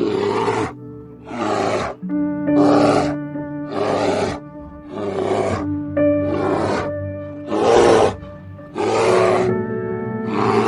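A large animal's harsh calls, repeated about nine times at roughly one a second, each about half a second long, over background music.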